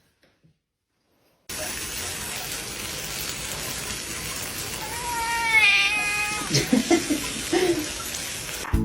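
Water running steadily, like a tap or bath filling, starting about a second and a half in, with a cat giving one long meow about halfway through.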